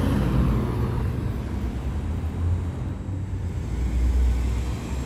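Car engines rumbling at low speed as cars pull in, a deep exhaust drone that swells and fades.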